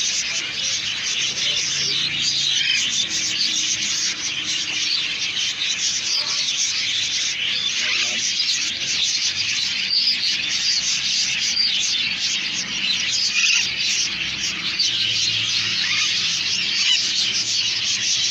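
Young Alexandrine parakeets giving continuous raspy, overlapping calls, a dense hissing chatter with short squeaky notes running through it.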